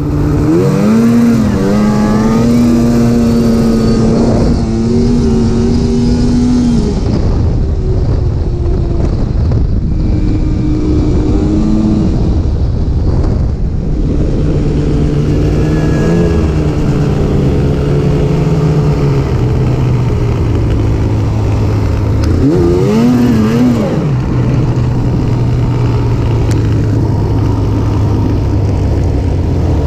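Snowmobile engine running under way, climbing in pitch about a second in and then rising and falling with the throttle, with another quick surge about two-thirds of the way through.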